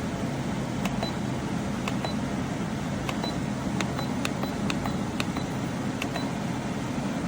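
Portable air conditioner running with a steady fan hum while its control-panel buttons are pressed, each press giving a short high beep, about eight times over several seconds.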